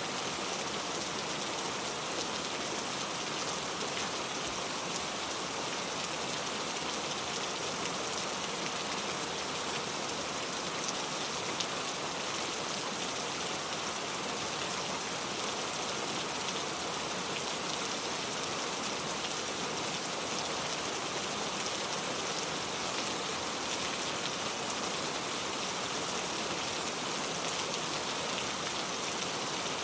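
Steady rain falling, an even hiss of many drops striking a surface with no let-up.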